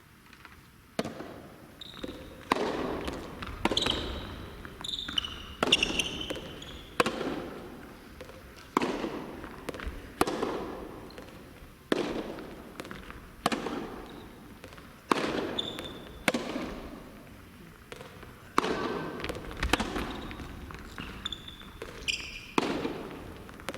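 A soft tennis rally: rubber balls struck by rackets and bouncing on the court, a sharp echoing pop about every second and a half, with brief squeaks of shoes on the court floor.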